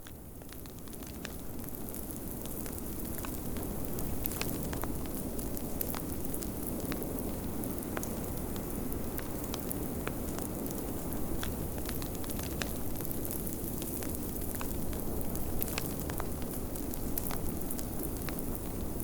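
Wood fire crackling in a fireplace, with sharp pops scattered throughout, over a steady low rush of blizzard wind. The sound fades in over the first few seconds.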